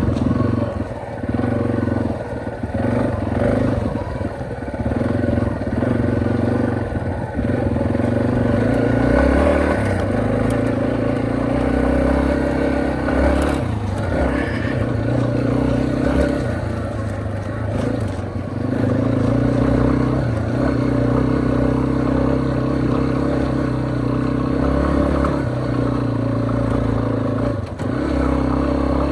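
A Yamaha XT250's single-cylinder four-stroke engine running under way, its pitch rising and falling over and over as the throttle opens and closes.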